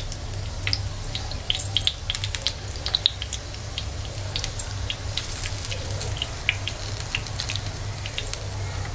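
Stuffed pointed gourds shallow-frying in oil on low heat: scattered small crackles and pops of spitting oil, over a steady low hum.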